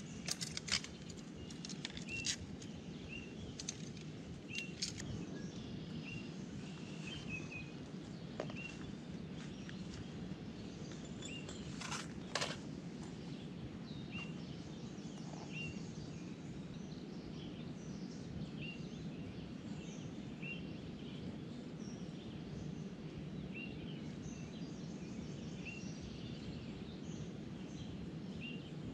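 A bird repeats a short, high chirp every second or two over a steady low background rumble. A few clicks and knocks in the first few seconds come from spinning rods and reels being picked up and handled.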